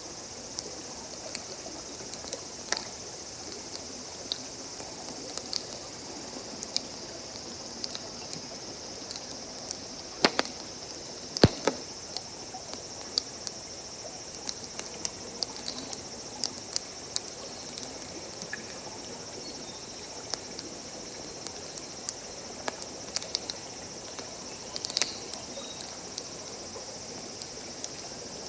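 Wood campfire crackling with scattered sharp pops, the two loudest about ten and eleven seconds in, over a steady high chirring of insects.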